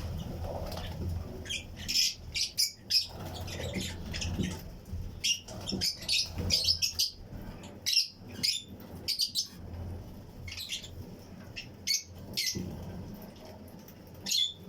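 A colony of Fischer's and lutino lovebirds chirping: many short, shrill calls in quick clusters, some overlapping, over a steady low hum.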